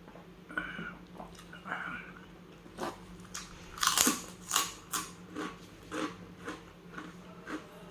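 A person chewing a mouthful of tuna sisig close to the microphone: wet mouth clicks and smacks that come thick and fast from about three seconds in, loudest around four seconds. A steady low hum runs underneath.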